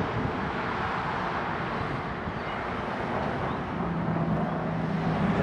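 Steady road traffic noise, with a vehicle engine's low hum coming in for about a second and a half near the end.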